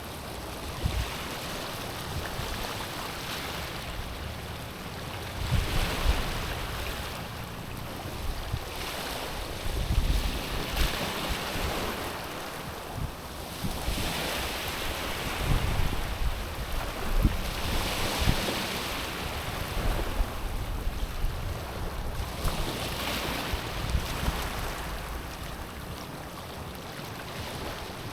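Small ocean waves washing in on a stony shore, swelling into a hiss over the stones every four to six seconds. Wind buffets the microphone with a gusty rumble.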